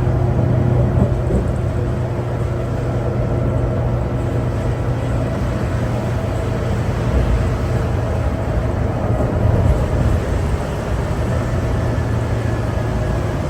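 A 2011 New Flyer D60LFR articulated diesel bus, its Cummins ISL9 inline-six and Allison B500R transmission running steadily, heard from inside the cabin. A steady low engine drone with road noise, holding even pitch and level.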